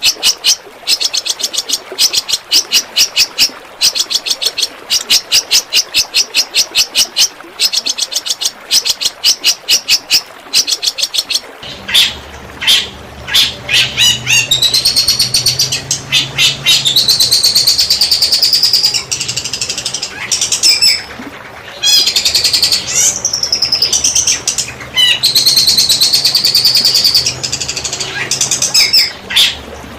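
Songbird singing loud, fast strings of sharp repeated notes in rapid-fire 'tembakan' bursts. About twelve seconds in, the recording switches to a continuous warbling song with gliding high notes over a low steady hum.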